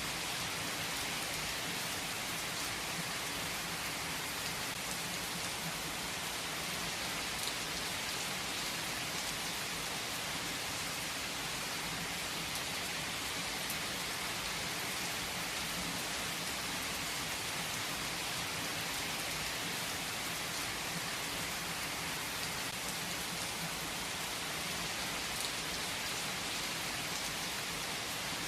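Steady rain falling: an even hiss without breaks, with a few faint single drops ticking through it.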